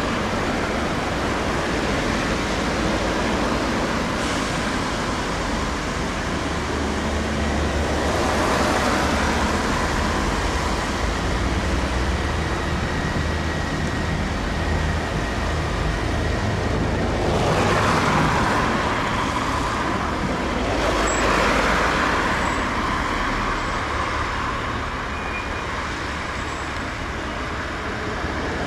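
Passing train: coaches rolling over the rails and the Class 47 diesel locomotive on the rear running, its Sulzer twin-bank engine giving a steady low rumble, with a few louder swells as the train goes by.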